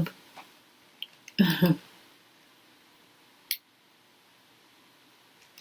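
Quiet room tone, broken about one and a half seconds in by one short voice sound of about half a second, and about two seconds later by a single sharp click.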